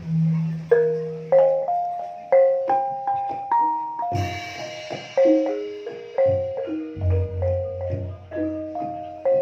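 Banyumasan gamelan playing a gending in ebeg style: struck, pitched mallet notes carry a melody at about two notes a second, each ringing out briefly. A deep held tone sounds at the start, a bright splashy stroke comes about four seconds in, and deep low tones come in near the end.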